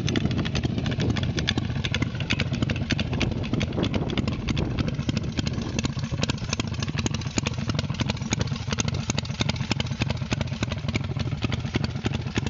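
Custom chopper motorcycle's V-twin engine idling steadily, its exhaust pulsing evenly.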